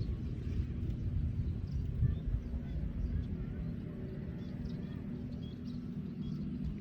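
Diesel engine of a custom chopper-bobber motorcycle running with a low, steady rumble, while birds chirp faintly.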